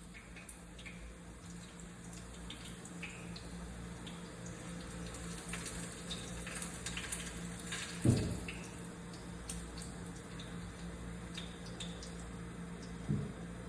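Corn dogs deep-frying in hot grease: a steady sizzle with scattered pops and crackles. A loud knock comes about eight seconds in and a smaller one near the end.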